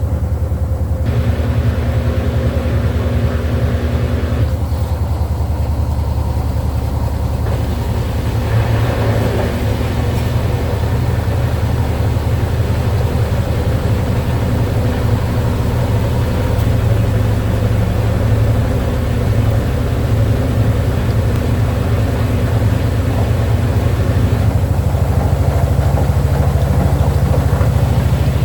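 Midea HealthGuard Smart 13 kg washing machine in its spin cycle, a loud steady low drone with a fast rattling vibration, getting noisier about eight seconds in. The machine is vibrating hard during the spin, the noise the owner calls loud.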